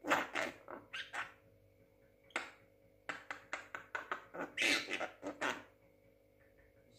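Young pet Javan myna chattering: harsh squawks, a quick run of sharp clicks, about five a second, from about three seconds in, and a louder drawn-out squawk near five seconds.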